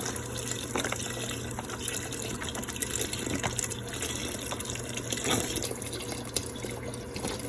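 Chicken stock pouring from a carton into a pot of gumbo base, a steady gushing fill with a few small knocks.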